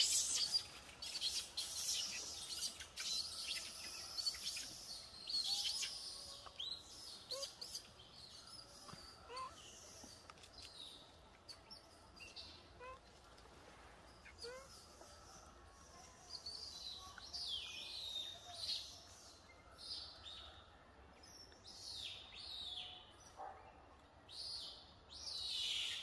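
Birds chirping and twittering, short high calls repeating on and off, fairly faint.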